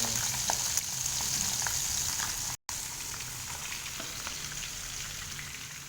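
Fish frying in hot oil, a steady sizzle with scattered small pops and crackles, briefly cut to silence about two and a half seconds in.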